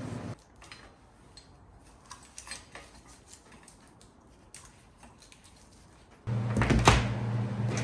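Small scattered metal clicks and clinks of hand tools and parts being handled. About six seconds in, a steady low hum cuts back in, and a loud sharp clank follows.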